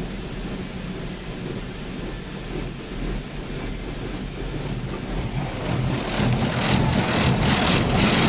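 High-pressure water jets of a touchless car wash spraying against a car's body, heard from inside the cabin. A steady hiss and rumble that grows louder and choppier about six seconds in, as the powerful spray comes across the car.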